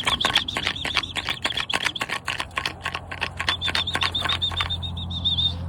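Pigeons' wings flapping rapidly as the birds take off, with a high, quickly repeated peeping of young pigeons over it. The flapping stops a little before the peeping does.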